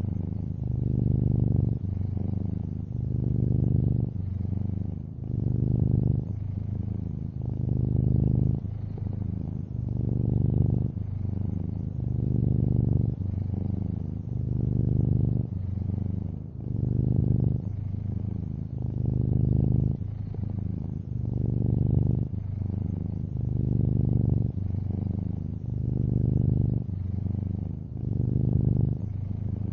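Domestic cat purring steadily, a long-haired orange tabby. The low purr swells and eases about every two seconds with its in- and out-breaths.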